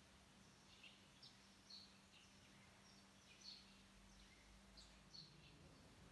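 Near silence with small birds chirping faintly: short, high chirps about twice a second. A faint steady hum underneath fades out about four and a half seconds in.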